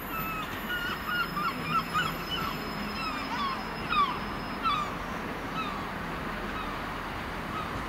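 Diesel multiple-unit train coming in slowly over curved pointwork, its engine a low steady hum, with a run of short squeaky chirps over the first five seconds or so, loudest about two and four seconds in.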